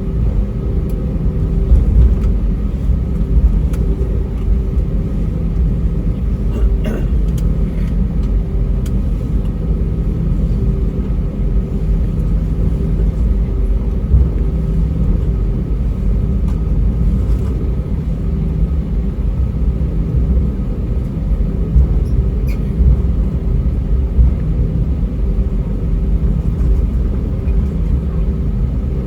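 Airbus A320's IAE V2500 engines at taxi idle heard inside the cabin, with the steady low rumble of the airliner rolling on the taxiway and a steady hum above it. A couple of faint clicks from the cabin, about seven seconds in and again near the end.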